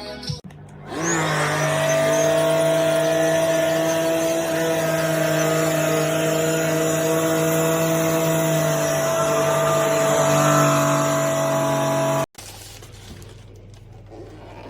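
JIMMY BX7 Pro dust-mite vacuum cleaner's motor starting up. It rises quickly to a steady whine of several tones and runs for about eleven seconds, then cuts off suddenly.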